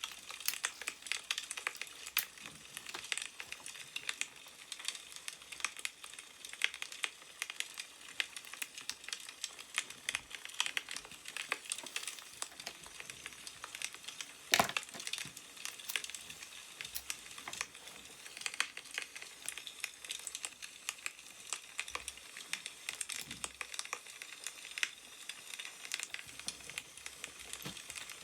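Wood fire crackling: a steady hiss full of small irregular pops, with one sharper crack about halfway through.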